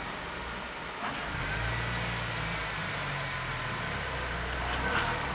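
Car engine idling with a steady low hum that gets a little louder about a second in.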